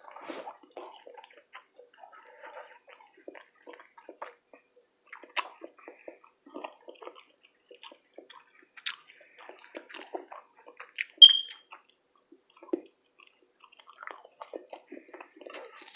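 Close-miked wet chewing and mouth smacks of someone eating a breakfast of fish, grits and toast, with many small irregular clicks. About eleven seconds in comes a single short ringing clink of cutlery against a dish, the loudest sound.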